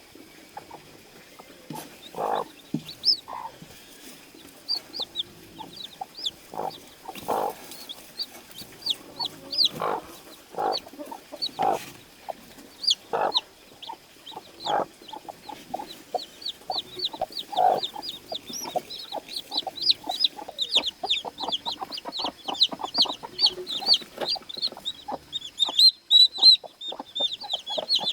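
Newly hatched chicks peeping in many short, high chirps that fall in pitch, growing busier and more continuous in the second half. A chicken's lower clucks are scattered through.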